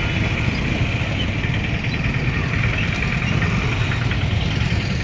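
Steady low rumble of the Jan Shatabdi Express train, with no change in level.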